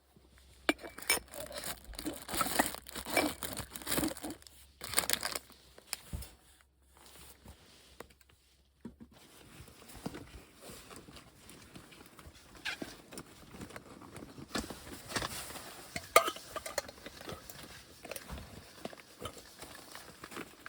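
Irregular crinkling and crunching sounds, with the background changing abruptly about nine seconds in.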